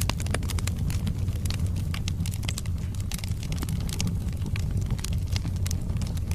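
Wood fire crackling: frequent irregular sharp pops and snaps of burning wood over a steady low rumble.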